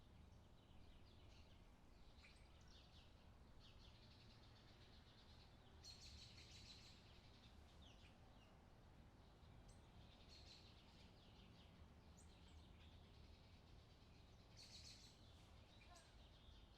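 Faint songbirds chirping and singing in short phrases every couple of seconds, over a low steady hum.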